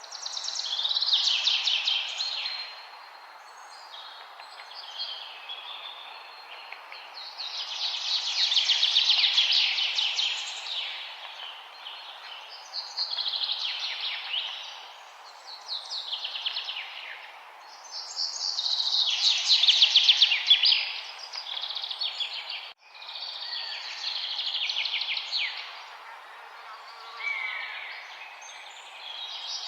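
A songbird singing loud phrases of rapid trills and chirps, a new phrase every five or six seconds, over a steady background hiss. The sound drops out for an instant a little after two-thirds of the way through.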